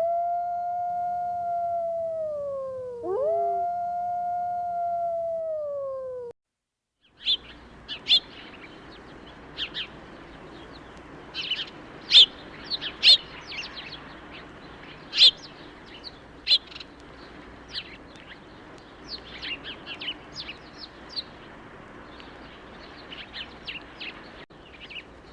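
A canine howls twice, each howl about three seconds long, rising quickly and then falling slowly in pitch. After a short silence, many short, high bird chirps follow over a steady background hiss.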